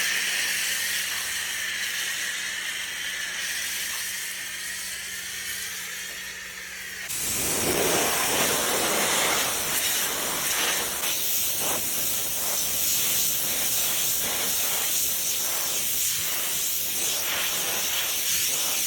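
Water spray hissing as a dirt bike is washed down. For the first seven seconds the spray runs steadily, with a low hum under it. It then changes abruptly to a louder, rougher spray that rises and falls as it plays over the bike.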